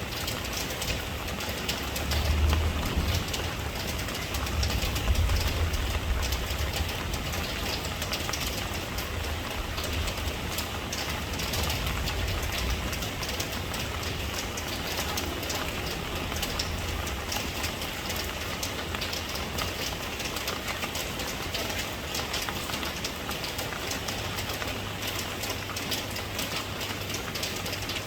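Steady rain falling, a dense even hiss, with a low rumble swelling up a few times in the first half.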